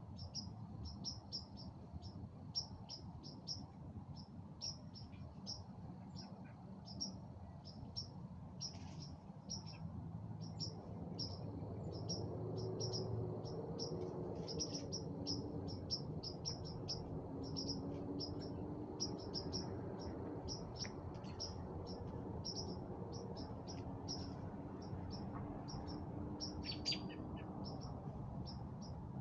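Birds chirping: a steady stream of short, high-pitched chirps repeated several times a second. A low steady rumble sits underneath, with a faint hum in the middle.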